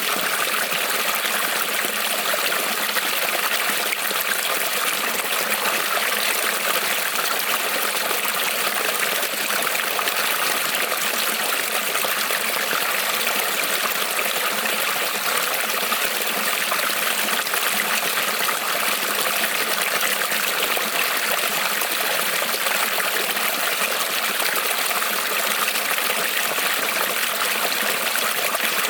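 Creek water rippling and trickling over stones, a steady, even rush with no breaks.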